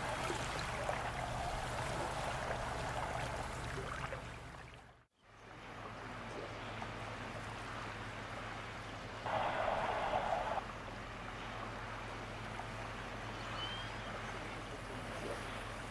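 Steady sound of moving water along a shore. It fades out briefly about five seconds in and resumes. A short, louder burst of noise comes at about ten seconds.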